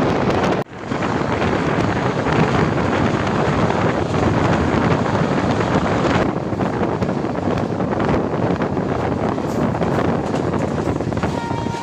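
Shatabdi Express train running at speed, heard as a loud, steady rushing noise with wind buffeting the microphone. The noise drops out for an instant about half a second in.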